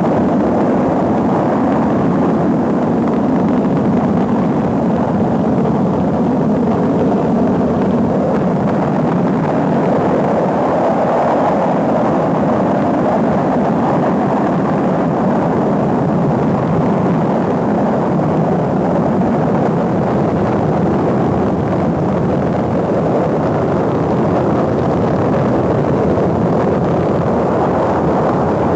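Rocket engine roar during a launch: a steady, loud, rumbling noise that holds an even level throughout.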